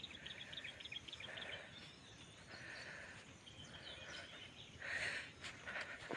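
Outdoor rural ambience with birds calling: a quick run of high chirps at the start, then short repeated calls, the loudest about five seconds in.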